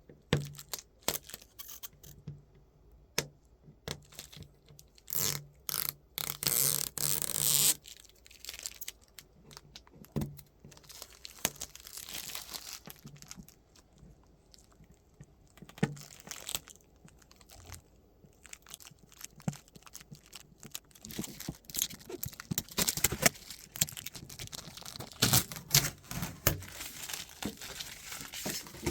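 Packaging being torn and pulled off a new fridge-freezer, with scattered knocks and scrapes; one longer tearing stretch about seven seconds in.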